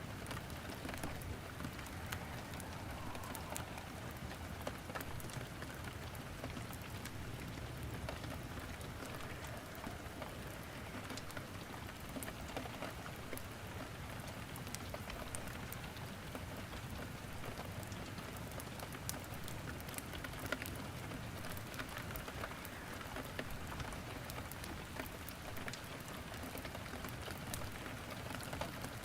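Steady rain falling, mixed with a wood fire crackling in a fireplace, with scattered small sharp pops throughout.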